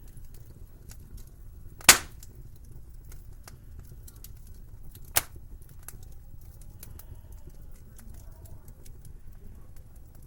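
Wood fire crackling in a fireplace: small crackles throughout and two sharp pops, a loud one about two seconds in and a smaller one about five seconds in, over a low steady rumble.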